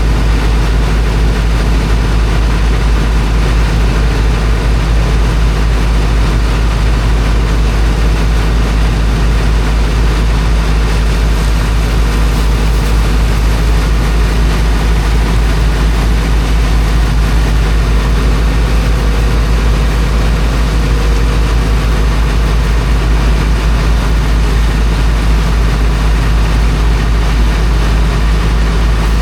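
Heavy engine of a high-pressure water pump running steadily at constant speed: a deep, unbroken hum with an even hiss laid over it.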